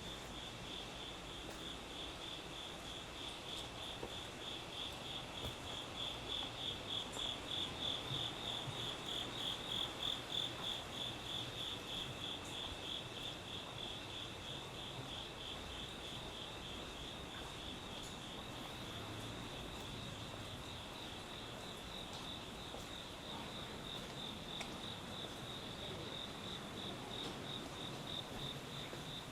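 Night-singing insects trilling in a steady, evenly pulsed high chirp that swells louder between about a fifth and a third of the way through, then settles, with a second, lower and fainter singer joining for a few seconds in the middle.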